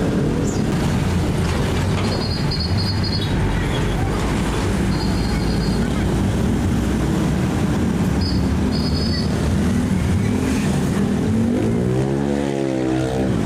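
Truck traffic: heavy engines running in a steady low rumble, with short high beeps three times and an engine revving up near the end.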